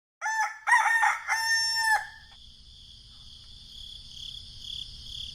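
Rooster crowing once: a cock-a-doodle-doo of a few short notes and one long held note, about two seconds long. A steady high insect chirring follows.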